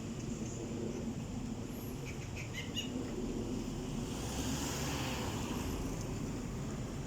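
Steady low rumble of road traffic, swelling a little around the middle, with a few brief high bird chirps about two to three seconds in.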